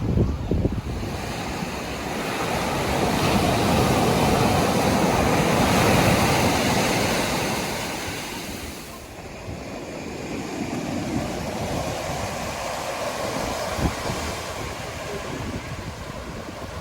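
Ocean surf washing up on a beach. One wave swells in over the first few seconds and falls away, then a weaker one builds after it.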